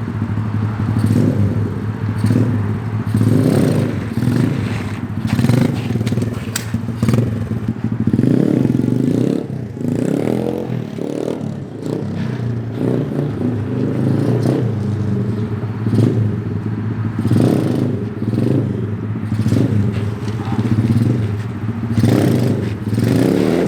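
SSR 125 pit bike's small single-cylinder four-stroke engine being ridden, the throttle opened and eased off over and over in short swells every second or two.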